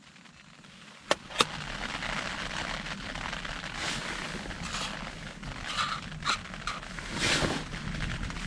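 Wood campfire crackling with irregular sharp pops, starting about a second in just after two sharp clicks.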